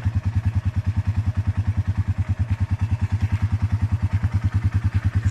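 An off-road bike's engine idling steadily, with an even pulse of about a dozen beats a second.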